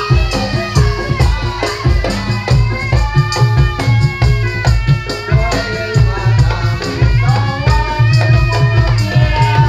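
Live Javanese barongan music ensemble playing: drums beat a fast, steady rhythm under a wavering lead melody, with rattling percussion.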